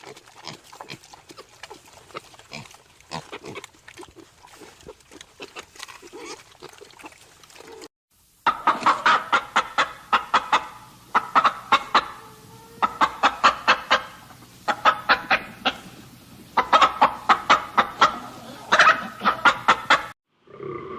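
Animal calls. For about the first eight seconds there are only quieter, scattered short sounds. Then, after a brief break, come loud runs of rapid repeated calls in groups of about eight to ten, several runs in a row.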